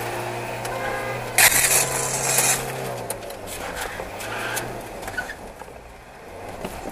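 Car engine running as the car drives off and turns, heard inside the cabin, with a loud harsh noise about one and a half seconds in; the engine sound fades after about three seconds.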